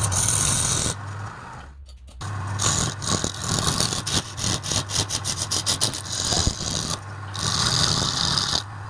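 Wood lathe running with a steady low hum while a turning tool cuts the spinning workpiece, giving hissing cuts near the start and again near the end, and a stretch of rapid ticking chatter in the middle.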